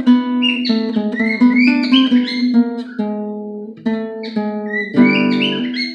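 Big Baby Taylor acoustic guitar played as single picked notes and chords, with a fuller strummed chord about five seconds in. A pet bird's high rising chirps sound over the playing in two stretches.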